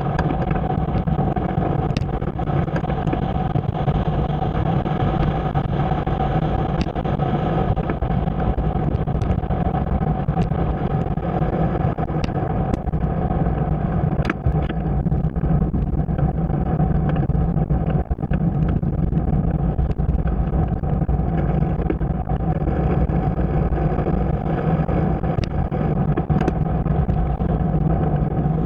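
Steady running noise of a moving ride: a constant low drone with a steady hum and scattered small ticks, unchanging throughout.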